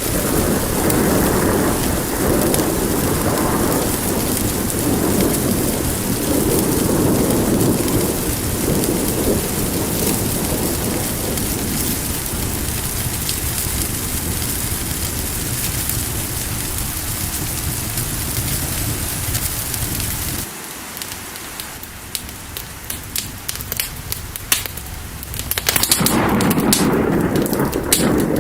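Steady heavy rain with rolling thunder rumbling underneath. About two-thirds of the way through the low rumble cuts out suddenly, leaving lighter rain with many sharp clicks and crackles, and the full rain-and-thunder sound returns near the end.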